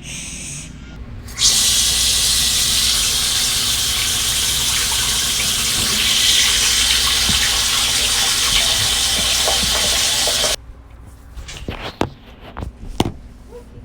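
Water gushing loudly and steadily, as from a tap running full, starting suddenly about a second and a half in and cutting off abruptly about nine seconds later.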